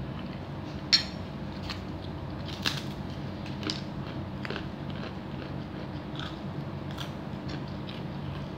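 Close-up mouth sounds of a person chewing a mouthful of chicken soto with rice, with small wet clicks and crackles. A sharp click about a second in is the loudest sound, over a steady low hum.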